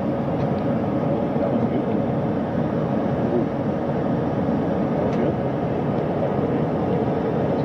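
Steady rumble and hiss of aircraft-like engine noise on a ship's flight deck, with faint voices in the background.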